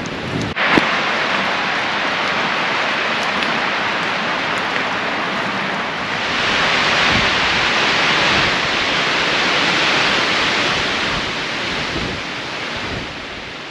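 Wind-driven storm with rain: a steady rushing noise that swells in a strong gust in the middle and eases toward the end.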